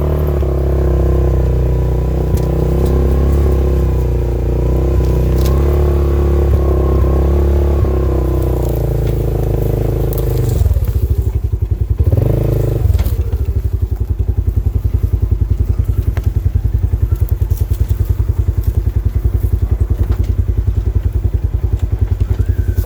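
Polaris RZR side-by-side engine running at a steady speed while under way, easing off about ten seconds in with a brief surge a couple of seconds later, then settling into a low, even pulsing idle.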